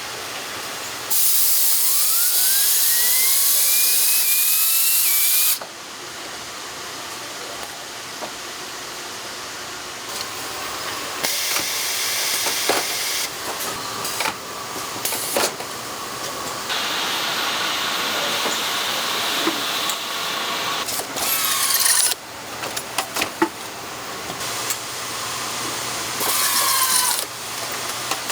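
Power-tool assembly line noise: loud bursts of compressed-air hiss that start and stop abruptly, the first carrying a whine that rises in pitch, among scattered clicks and knocks of parts and tools being handled.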